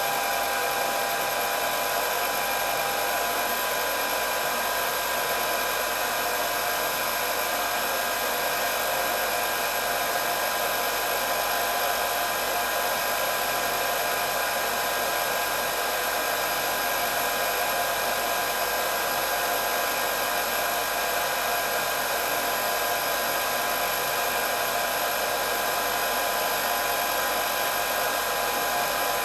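Electric hair dryer running steadily: a continuous motor whine with several steady pitches over the rush of blown air.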